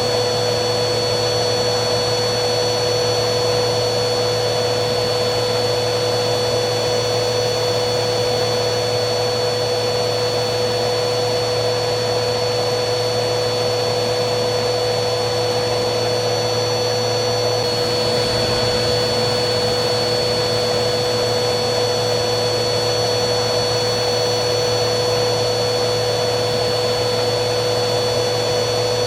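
Vacuum cleaner running steadily: a constant motor drone with a high whine over a rushing hiss. The whine shifts slightly about 18 seconds in.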